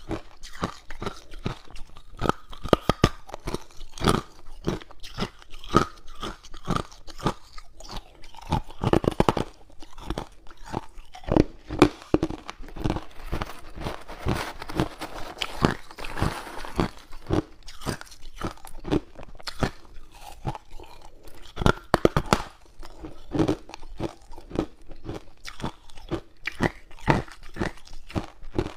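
Hard ice cubes being bitten and chewed close to the microphone: a long run of irregular, sharp crunches, several a second, as the ice cracks between the teeth.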